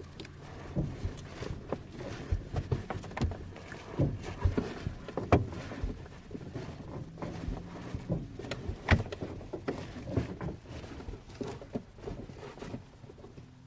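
Irregular knocks, clicks and rattles from a DG-300 glider's cockpit and airframe during a winch launch, over a faint low steady hum.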